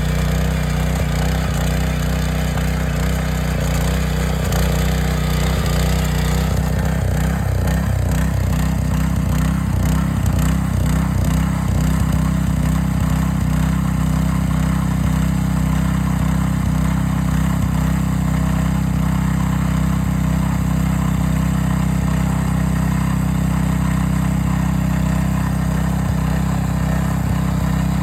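Small farm tractor's engine running at a steady speed.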